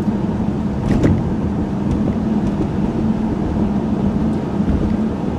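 A 1995 Chevrolet Monte Carlo driving, heard from inside the cabin: steady engine hum and road noise, with a single sharp knock about a second in.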